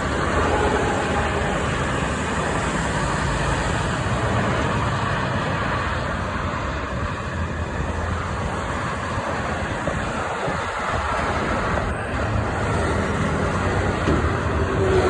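Steady street traffic noise from passing vehicles, with a steady hum coming in about a second before the end.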